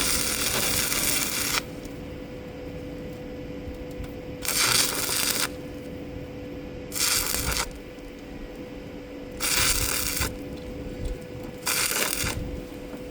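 Stick-welding arc crackling and hissing in short bursts, four or five separate arcs of about half a second to a second each, with a steady machine hum underneath.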